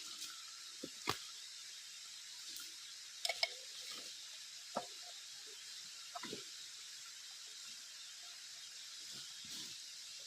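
Faint, steady rushing hiss of falling water, with a few scattered small clicks and knocks.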